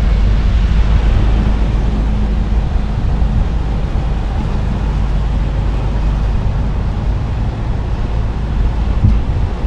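Car driving steadily along a road, heard from inside the cabin: a constant low rumble of engine and tyres with an even road hiss, and a brief bump near the end.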